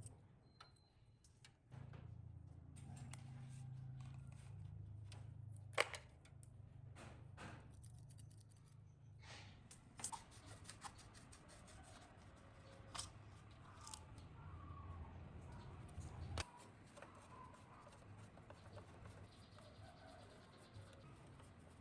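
Tools and metal parts being handled in sharp, scattered clicks and taps, over a low hum that starts about two seconds in and cuts off abruptly about three-quarters of the way through.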